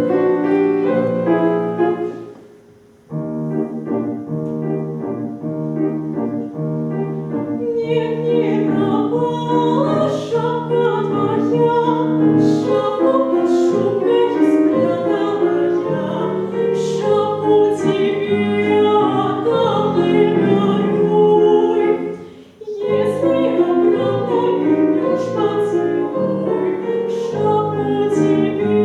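Operatic-style singing with piano accompaniment. The piano plays alone at first, the voice comes in about a third of the way through, and the music breaks off briefly twice.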